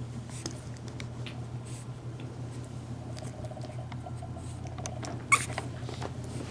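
Pekingese puppies pattering and scrabbling with light clicks of small paws and claws, and one short, high squeak about five seconds in.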